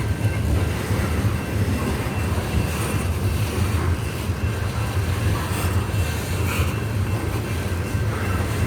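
Freight train of coal hopper cars rolling slowly past, a steady low rumble with a faint thin high tone held above it.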